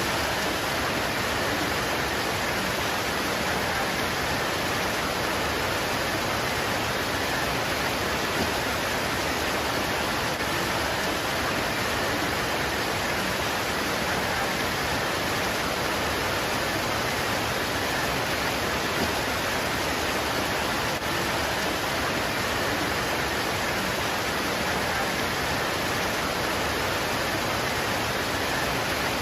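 Steady rain pouring on leaves: an even, unbroken hiss with no single drops or other events standing out.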